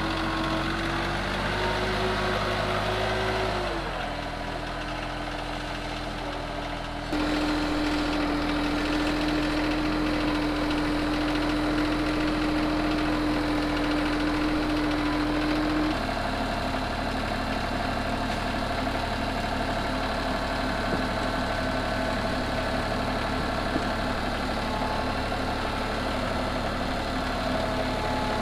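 Branson 3015H compact tractor's diesel engine running steadily with a low knock. Its pitch and level change abruptly a few times.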